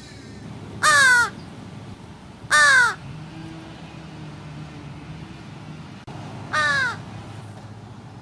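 American crow cawing three times, each caw short and falling in pitch, the third a little softer and after a longer gap.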